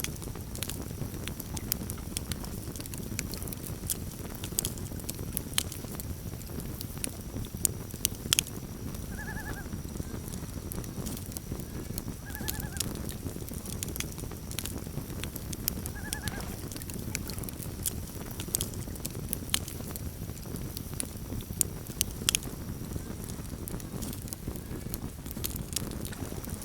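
Campfire burning with a steady low rush and frequent sharp crackles and pops. Three short wavering calls of a common loon, a few seconds apart, come over the fire about a third of the way in.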